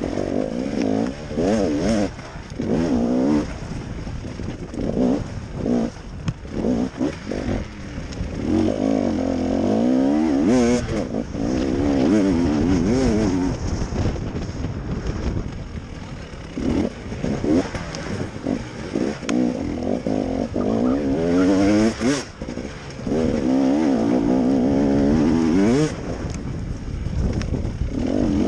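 KTM enduro motorcycle engine, heard onboard, revving up and falling back over and over as the throttle is opened and shut through the turns, with a steady rush of wind on the microphone. Short knocks from the bike over the rough ground are heard now and then.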